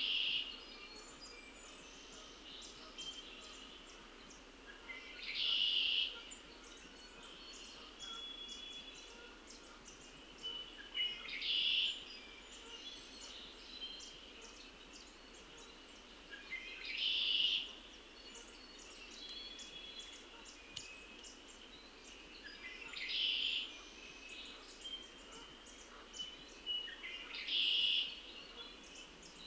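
A songbird singing a short phrase over and over, about every six seconds, over a background of many other birds chirping and calling.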